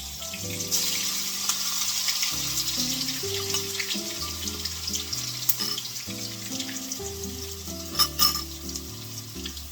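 Hash brown patties frying in a pan, with a steady sizzle and crackle. Two sharp knocks about eight seconds in.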